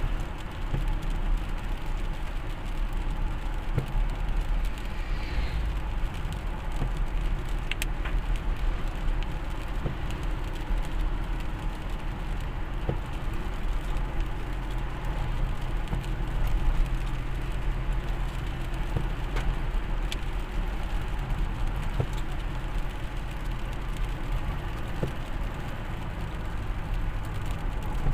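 Road vehicle driving steadily: a constant low engine hum under road and wind noise.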